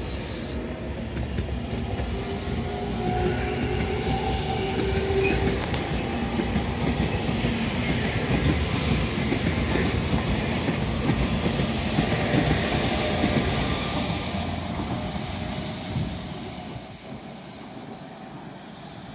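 Electric passenger train running past on the adjacent track: steady wheel-on-rail rumble with a thin high whine, loudest about halfway through, then fading as it draws away over the last few seconds.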